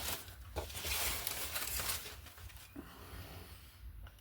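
Rustling and a few light clicks of art supplies being handled and sorted while searching for a colour. The rustle fades after about two seconds.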